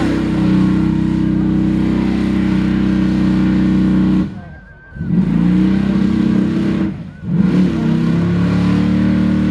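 Mud truck's engine running loud and hard at high revs, steady and held under load. It drops away abruptly twice, about four seconds in and again about seven seconds in, then comes back at full revs.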